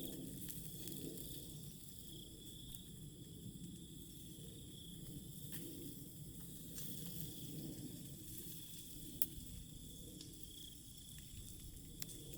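Quiet outdoor ambience: a faint steady high-pitched hum over a low rustling haze, with a few sparse crackles and clicks.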